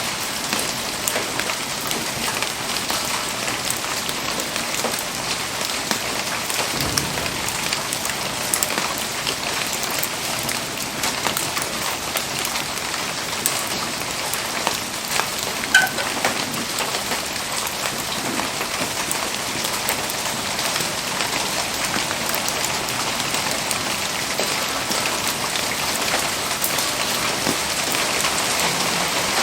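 Steady rain falling, a dense even hiss sprinkled with many small ticks of drops striking surfaces. There is one sharper pop about halfway through.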